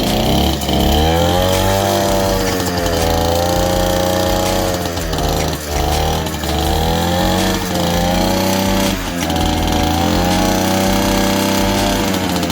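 Mini bike's small engine running hard, its pitch rising and falling several times as the throttle is opened and eased off.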